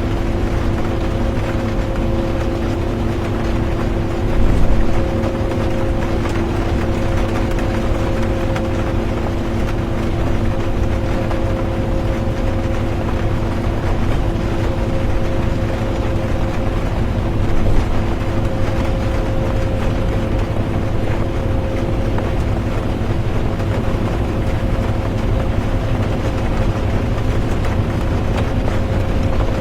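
Bus engine drone and road noise heard from inside the cabin, steady throughout, with a constant hum. There are brief louder bumps about four seconds in and again near eighteen seconds.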